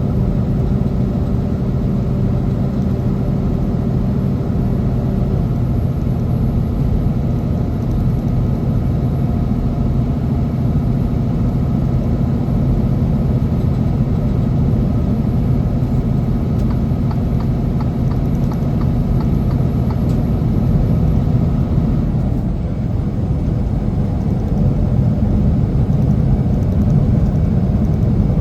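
Semi truck's diesel engine running steadily with a low rumble of road noise; its engine tone changes slightly about 22 seconds in.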